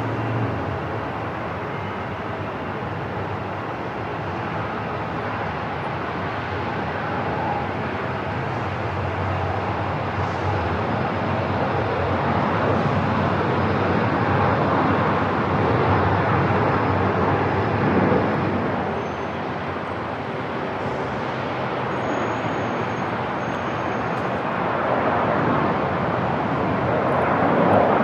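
Airport ambience: a steady rush of noise with a low rumble, slowly swelling and easing in level.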